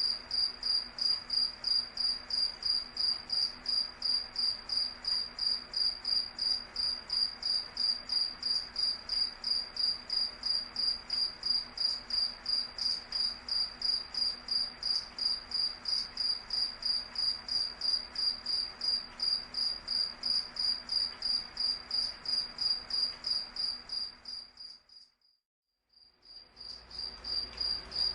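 A cricket chirping in a steady, even rhythm of about three high-pitched pulses a second. Near the end the chirping fades away to silence for about a second, then fades back in.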